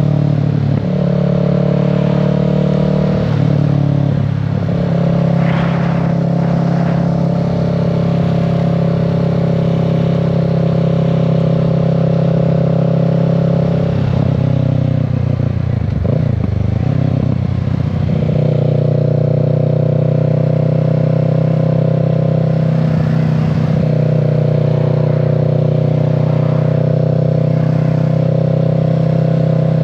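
2025 Kawasaki Z650's parallel-twin engine running under way at a steady pace. Its pitch shifts about a second in and again around four seconds, and wavers for several seconds in the middle before settling back to a steady note.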